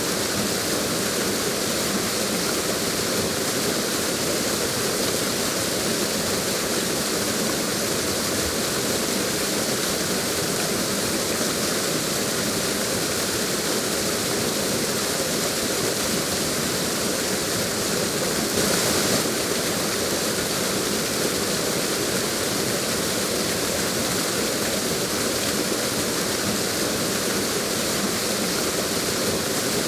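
A waterfall, water pouring and rushing steadily, swelling briefly about two-thirds of the way through.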